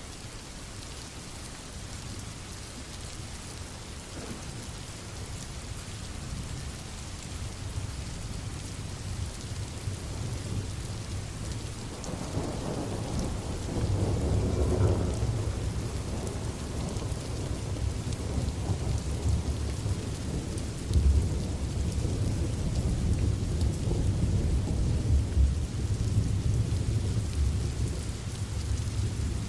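Steady rain falling, with a long low roll of thunder that builds from about twelve seconds in and keeps rumbling to the end.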